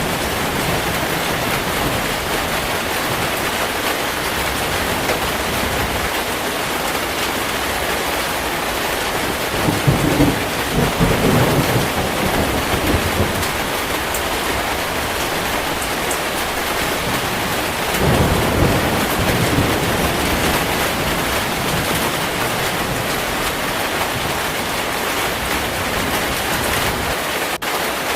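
Heavy rain falling steadily, with two low rolls of thunder, one about ten seconds in and another about eighteen seconds in.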